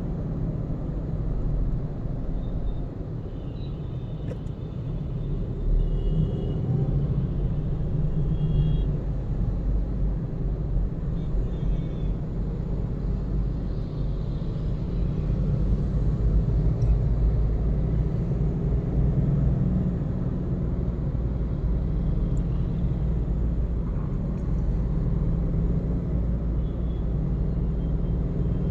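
A car being driven, heard from inside the cabin: a steady low rumble of engine and tyre noise, with a few faint short high tones now and then.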